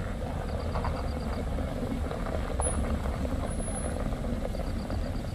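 Steady low engine rumble of a Mitsubishi Xpander MPV crawling up a loose dirt-and-gravel slope, with scattered faint crunches from the tyres on stones. A short run of rapid high ticks comes twice, about half a second in and near the end.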